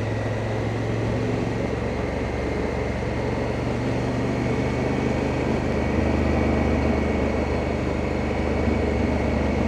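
Honda Africa Twin's parallel-twin engine running steadily under way, mixed with wind and road noise; the engine note shifts slightly and gets a little louder about six seconds in.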